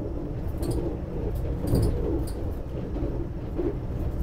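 Steady low rumble inside a Vande Bharat Express electric train coach running at about 127 km/h, with a few faint clicks and rattles along the way.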